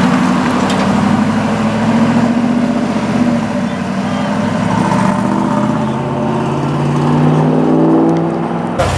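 A car engine running, its pitch climbing steadily over the last few seconds as it revs up, then cut off suddenly near the end.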